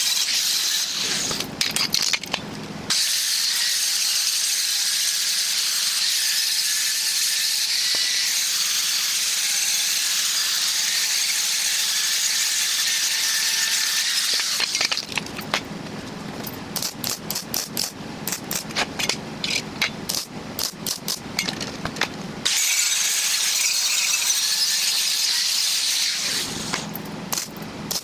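Metal fabrication sounds in abrupt cuts: long stretches of steady, high, hissing angle-grinder work on steel, alternating with the dense irregular crackle of wire-feed welding, about halfway through and again near the end.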